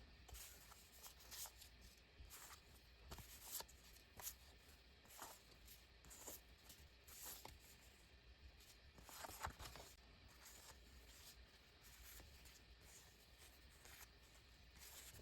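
Faint, scattered rustles and light ticks of paper sticker sheets being handled and shuffled.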